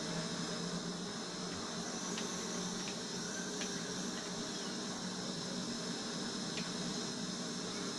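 Steady hiss of background room noise with a few faint clicks.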